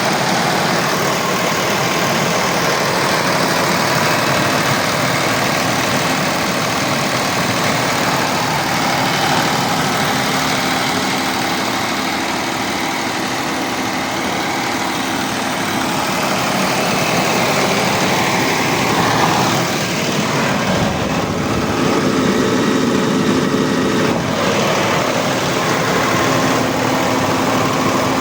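Eicher 40 kVA diesel generator set running steadily, with a shift in tone for a few seconds about two-thirds of the way through.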